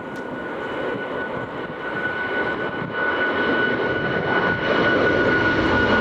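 Jet airliner's engines: a broad rush with a steady high whine, growing steadily louder as the aircraft comes closer.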